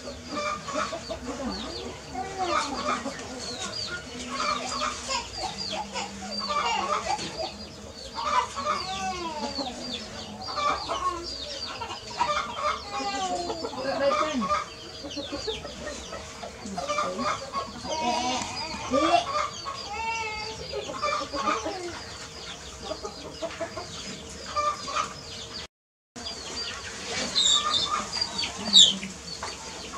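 Many short bird calls, rising and falling, on and off throughout, over a faint steady hum; the sound cuts out briefly near the end.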